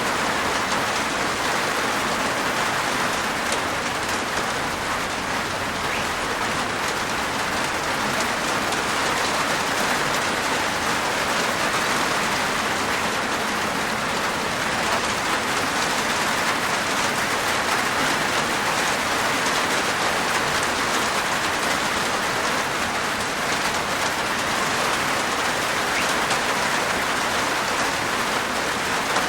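Steady rain falling on a rooftop, an even patter of many raindrops.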